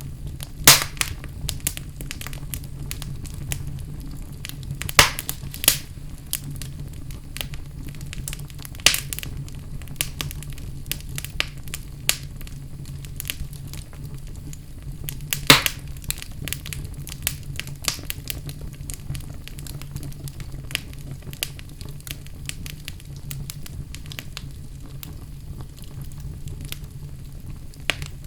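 Fire burning in a fireplace: steady faint crackling over a low, even rumble, with a sharp pop every few seconds.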